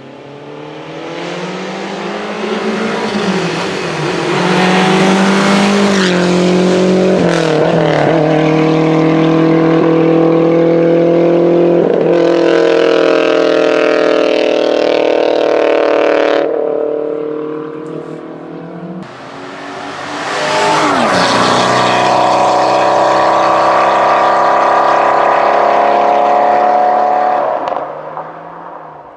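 Historic racing car engines running hard at high revs, their pitch stepping down a few times. There are two loud stretches: the first cuts off abruptly about two-thirds of the way through, and the second fades out near the end.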